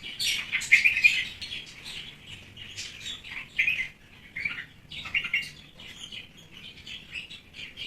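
Small birds chirping: a quick string of short, high calls, loudest in the first second and again about five seconds in.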